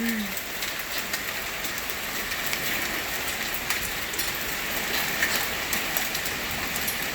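Hailstorm: hailstones falling and striking the ground and surfaces, a steady hiss scattered with many sharp ticks.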